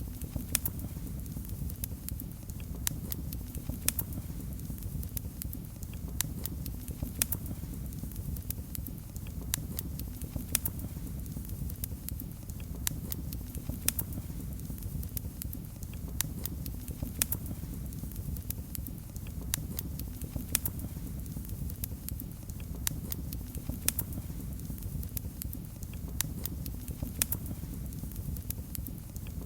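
Wood fire burning in a fireplace, with frequent irregular crackles and sharp pops over a low, steady rumble of the flames.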